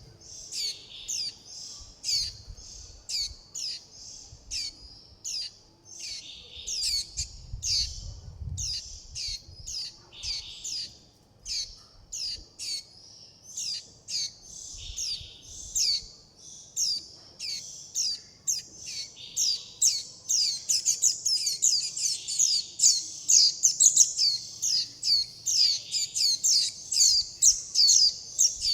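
Fledgling white-eye calling: a continuous run of short, high, down-slurred chirps, several a second, growing denser and louder about two-thirds of the way through. These are a young bird's begging and contact calls to its parent and flock.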